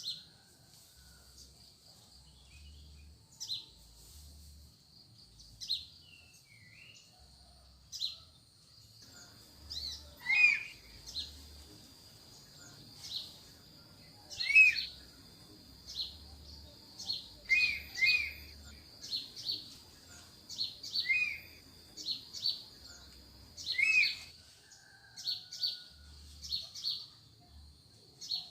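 Wild forest birds calling: short high calls repeat every second or two, and from about ten seconds in a louder, lower note that falls in pitch answers several times. A steady high-pitched hum runs underneath.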